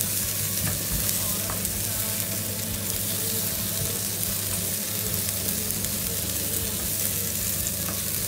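Pork intestines (isaw) frying with onion and garlic in a pan over high heat, a steady sizzle, with a few light clicks of the utensil stirring them.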